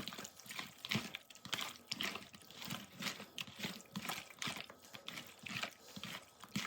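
Sliced meat being mixed by hand in a mayonnaise marinade in a bowl: irregular wet squelching strokes, a few each second.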